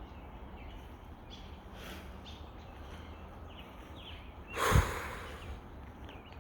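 A person's loud, sharp breath close to the microphone, once, about three-quarters of the way through, over quiet outdoor ambience with a few faint bird chirps.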